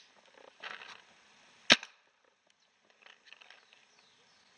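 A paintball marker fires a single sharp pop about a second and a half in, with a short rustle of movement just before it.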